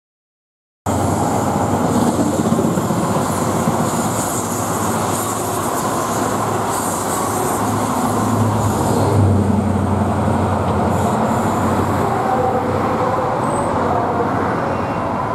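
Passenger train running past on the rails: a steady rumble and hiss of wheels on track that starts abruptly about a second in. A few steady tones join it near the end.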